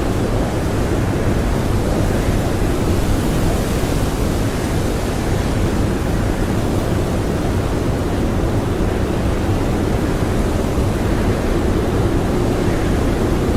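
Strong blizzard wind blowing steadily: a loud, even rush of noise, deepest at the low end, with no single gust standing out.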